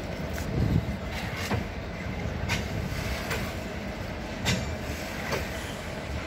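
Diesel-electric multiple unit (DEMU) train running away along the track: a steady low rumble with sharp clicks of its wheels over the rails, coming at uneven intervals.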